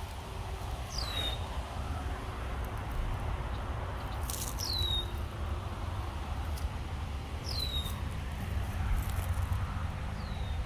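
A bird repeating a short, high, downward-sliding whistled note four times, about three seconds apart, over a steady low rumble and a few soft clicks or rustles.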